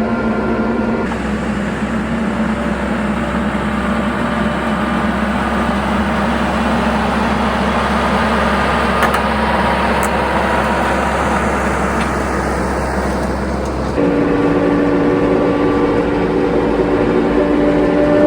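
Tractor diesel engine running steadily. Its note changes abruptly about a second in and again near the end.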